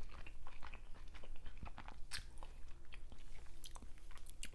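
A person chewing a mouthful of clam from a seafood boil, with many short, irregular mouth clicks.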